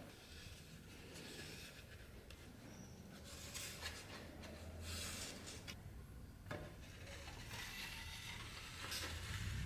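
Hand-tool workshop noise: uneven rubbing and scraping with a couple of sharp clicks, over a low hum.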